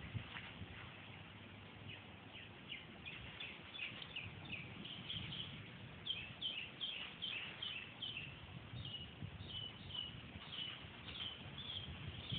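Birds calling with short, high chirps repeated several times a second, growing busier a few seconds in, over a low background rumble.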